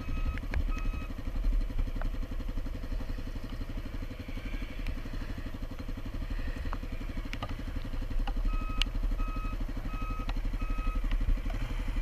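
Dual-sport motorcycle engine idling steadily. Past the middle comes a row of short, evenly spaced electronic beeps, like a vehicle's reversing alarm.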